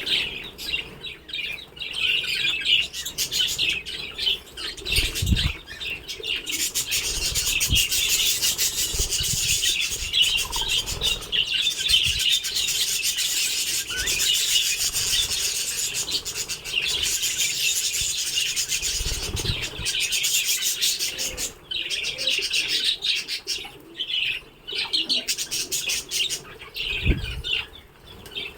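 A colony of budgerigars chattering and chirping together, a dense, continuous high chatter, with a few brief low thumps along the way.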